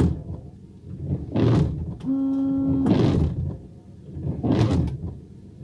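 Windshield wipers sweeping back and forth across the glass, a rubbing sweep about every second and a half. On every other stroke a blade chatters with a buzzing groan that lasts most of a second. The owner finds that the wiper arm's spring has lost pressure, so the blade trembles on the glass instead of pressing flat.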